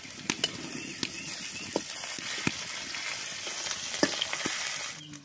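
Garlic cloves and sliced onions sizzling in hot oil in a steel wok, stirred with a flat metal spatula that clicks and scrapes against the pan several times. The sizzling stops suddenly near the end.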